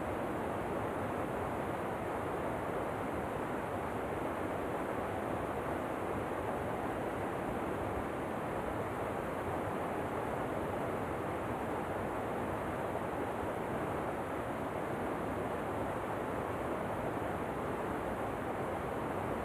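Waterfall rushing, a steady, unchanging roar of falling water.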